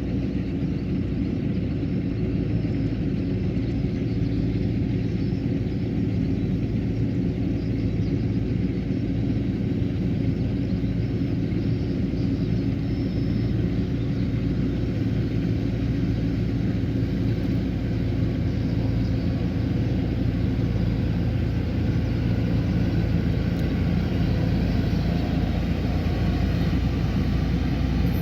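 Kubota combine harvester engine running steadily, a constant low rumble with a steady engine drone.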